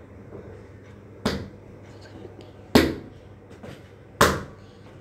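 Bitter gourd pieces frying in hot oil, a steady sizzle, with three sharp knocks about a second and a half apart over it.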